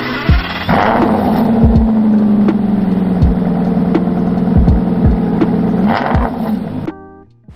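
Car engine cold start: the engine catches about a second in with a brief rev flare, then settles into a steady, slightly falling fast idle that cuts off sharply near the end. A deep bass beat of music thumps underneath.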